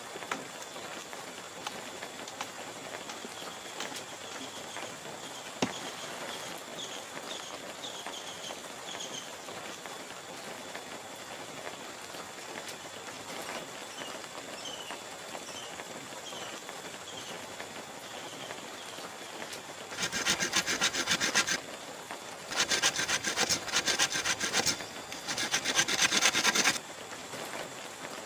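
A hand saw cutting bamboo in three short bouts of quick strokes in the last third, over a steady background hiss.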